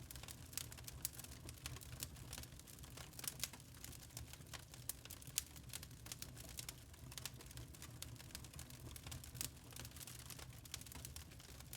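Wood fire in a fireplace crackling: a dense run of small irregular pops and snaps over a low steady rumble of burning.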